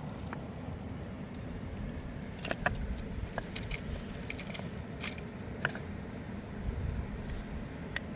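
Steady low rush of a mountain river, with a few sharp clicks and knocks close by.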